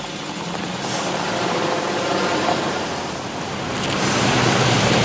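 Car engine running as the car drives slowly, a steady sound that grows louder over the last second or so.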